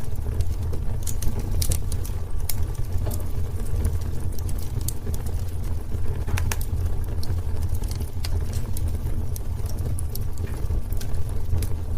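Wood fire burning in a fireplace: a steady low rumble of flames with frequent irregular crackles and sharp pops from the burning wood.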